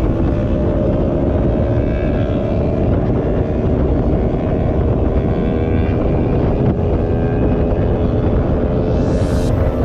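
Bajaj Pulsar NS200's single-cylinder engine running at a steady cruising speed while riding, with wind and road rumble over it.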